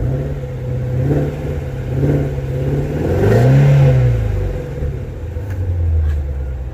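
Car engine revved by the gas pedal a few times, each rev rising and falling back to idle, the biggest about three seconds in.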